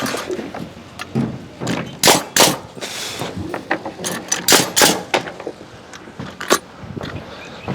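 Nails being driven into timber wall framing: a string of sharp, irregular impacts, about a dozen over several seconds, with a short hiss about three seconds in.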